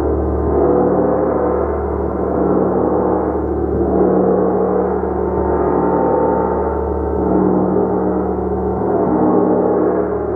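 Gong played continuously, a dense, unbroken wash of many overlapping tones that swells and eases every couple of seconds.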